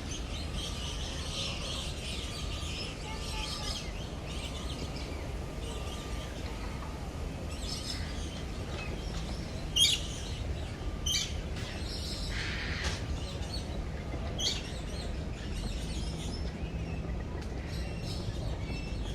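Birds chirping and calling: many short, sharp high calls scattered throughout, the loudest about halfway through, over a steady low rumble.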